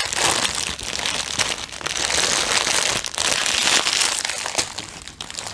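Plastic packaging crinkling and crackling as it is handled.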